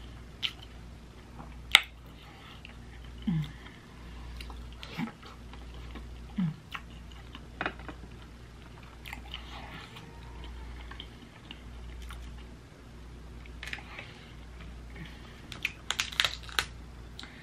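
Close-miked chewing and mouth sounds of a person eating a seafood boil, with scattered sharp clicks and wet smacks. Near the end comes a quick run of crackles as shellfish shell is pulled apart by hand.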